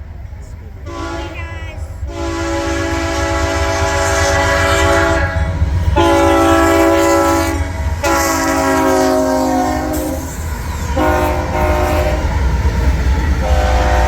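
Locomotive horn sounding a chord in about six blasts of varying length, some long and some short, over the steady low rumble of a passing train.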